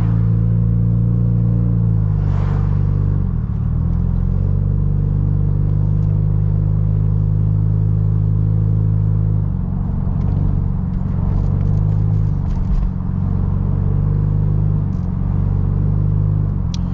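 Car engine running under way, heard from inside the cabin as a steady low drone; the engine note dips and picks back up a couple of seconds in, and shifts again about halfway through.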